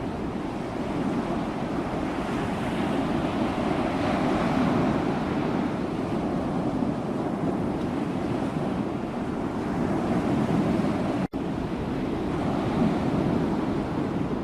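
Sea waves washing onto the shore: a continuous rushing surf that swells and eases every few seconds. About eleven seconds in, the sound drops out for a split second.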